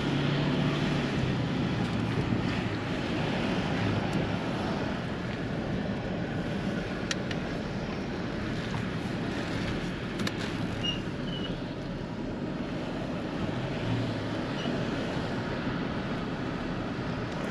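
Steady road and wind noise from a moving vehicle, with wind buffeting the microphone.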